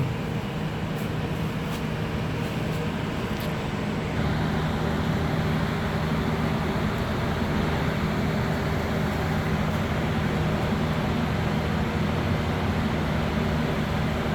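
Steady mechanical hum and noise, a little louder from about four seconds in.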